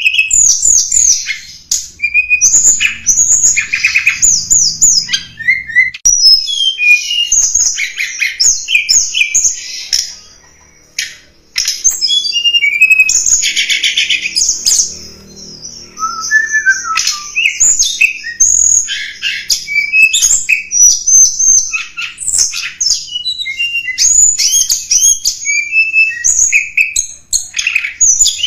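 Tledekan gunung songbird singing a lure song: rapid, varied high chirps, trills and short whistled glides in quick succession, with a brief pause about ten seconds in.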